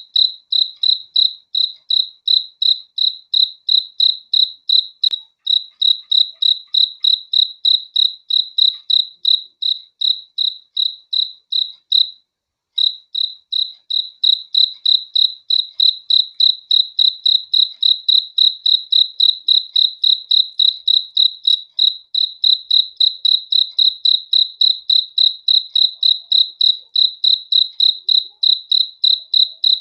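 A cricket chirping in a steady, even rhythm of about three high-pitched chirps a second, breaking off briefly about twelve seconds in before carrying on.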